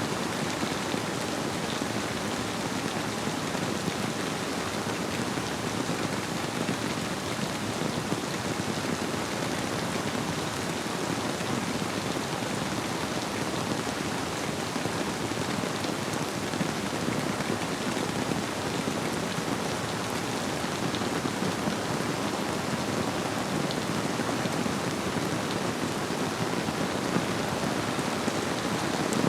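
Steady rain, a dense patter of drops on surfaces, blended with the flow of a river.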